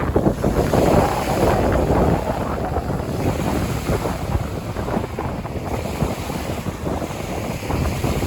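Wind buffeting the microphone in gusts, over waves washing onto the lake shore.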